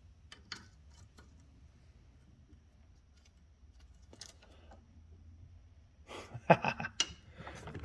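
Scattered small clicks and knocks of tools and small parts being handled over a low steady hum, with a few sharper knocks near the end.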